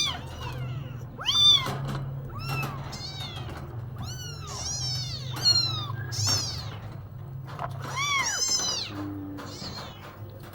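A domestic cat meowing over and over, about ten meows in quick succession, each rising and falling in pitch.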